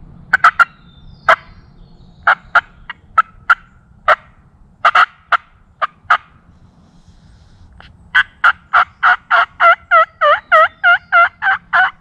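Hand-worked turkey call imitating a hen: a scattered string of sharp, short clucks and cutts, then from about eight seconds a fast, even run of yelps, about four a second, made to bring in a gobbler.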